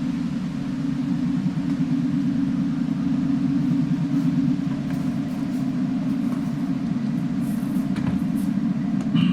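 A steady low rumble from a moving vehicle, with a short higher-pitched sound near the end.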